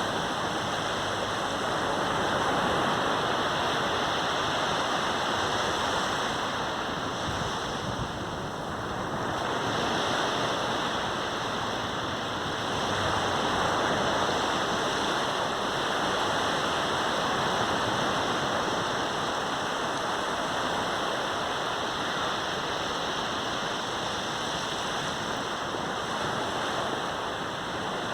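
Sea waves breaking and washing up on a sandy beach, a continuous rush of surf that swells and eases every few seconds.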